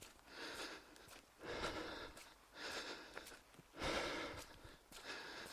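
A man breathing heavily and rhythmically close to the microphone, about one breath a second, five in all, as he gets his wind back from jogging.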